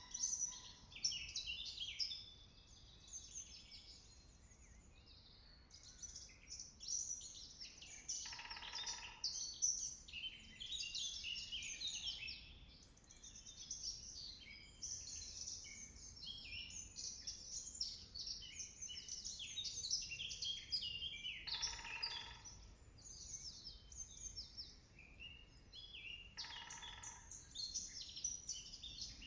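Woodland songbirds singing in a busy chorus, broken three times by a short, lower rolling burst about 9, 22 and 27 seconds in, fitting a woodpecker drumming on a tree.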